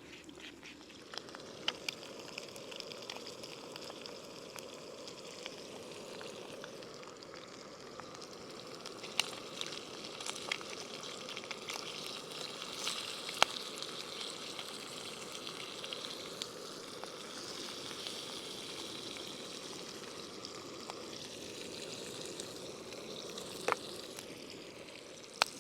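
Eggs frying in a pan, a steady sizzle with scattered sharp pops and crackles of spitting fat.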